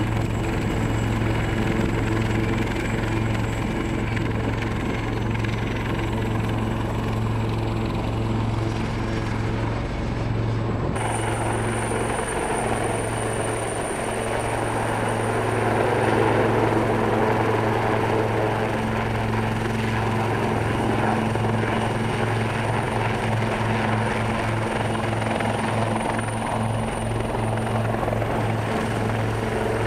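Helicopter in flight, its rotor and engine making a steady low drone with a few held tones above it. The sound changes abruptly about eleven seconds in.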